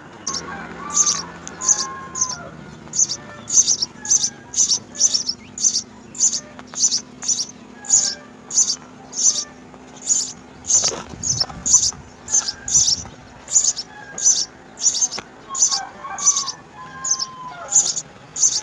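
House sparrows chirping at the nest: an unbroken train of short, high chirps, about two to three a second, with a few fainter, lower whistled notes near the start and near the end.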